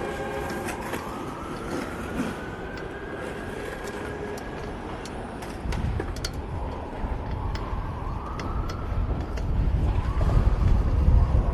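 City street traffic heard from a moving bicycle, with wind rumbling on the microphone that grows louder about halfway through. A tone rises and falls slowly in pitch a few times over the traffic noise.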